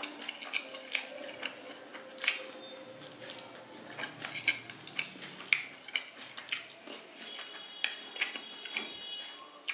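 Wet chewing of rice and fish eaten by hand, with irregular sharp lip smacks and mouth clicks. Now and then fingers squish rice on the plate.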